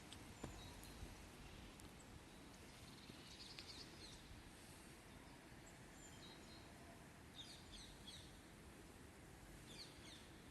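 Quiet outdoor ambience with faint bird chirps in three short clusters, a few seconds apart.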